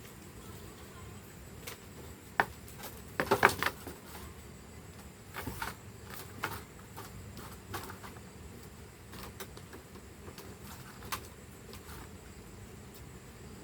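Scattered light knocks and taps over a faint steady background hiss, with the loudest cluster of knocks about three seconds in.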